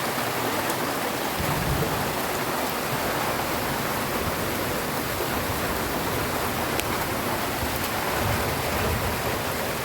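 Steady rain falling, an even hiss of drops. Two brief low rumbles come about a second and a half in and again near the end.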